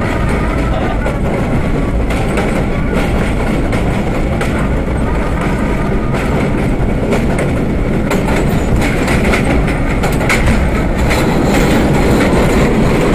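R32 subway car running along the track with a steady rumble, its wheels clicking over rail joints, the clicks coming thicker in the second half.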